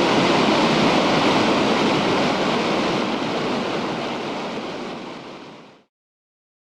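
Floodwater of the swollen Ventura River rushing steadily, heard as an even roar of water; it fades down over its last couple of seconds and cuts off to silence about six seconds in.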